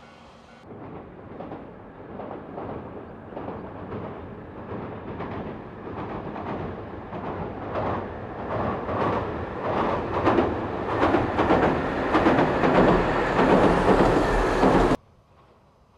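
A locomotive-hauled track inspection train approaching and running onto a steel truss bridge: a rumble with rhythmic wheel clatter grows steadily louder, then cuts off suddenly near the end.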